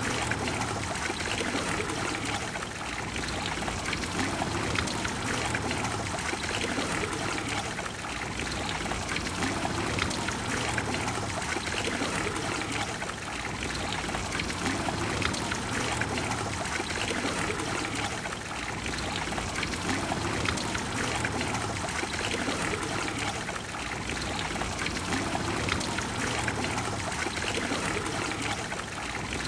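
Water of the Trevi Fountain splashing and pouring into its basin, a steady dense rush with small swells in level.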